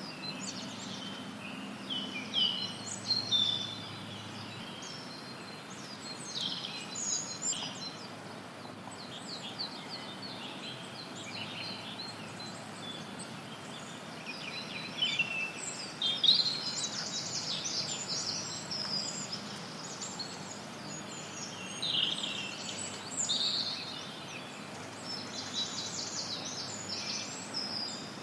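Forest songbirds chirping and trilling in overlapping bursts over a steady hiss of added white noise.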